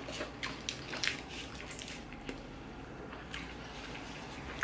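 A mouthful of burger being chewed close to the microphone: wet mouth clicks and smacks, many in the first half, fewer towards the end.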